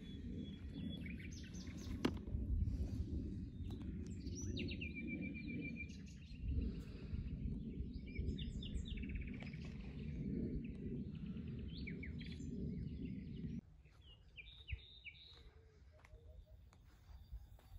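Small birds chirping and trilling again and again over a steady low noise, which cuts off abruptly about three-quarters of the way through, leaving the bird calls clearer and quieter.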